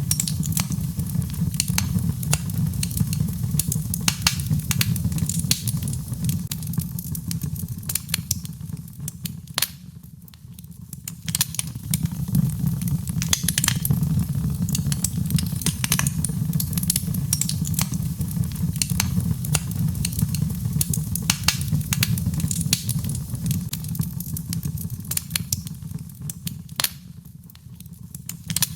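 Birch logs burning in a fireplace, crackling with many sharp snaps over a steady low rush of flame. The low rush fades briefly twice.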